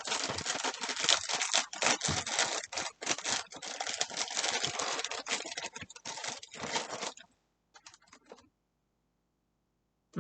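Plastic inner bag of a cereal box crinkling and tearing as it is pulled open. It is a dense run of crackles that stops about seven seconds in, followed by a few faint ticks.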